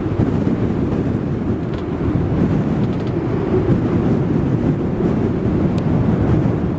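Strong wind buffeting the microphone: a steady, dense low rumble.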